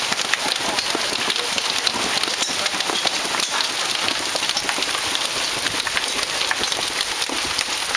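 Hailstorm: hailstones pelting down and striking surfaces in a steady, dense clatter of countless small impacts.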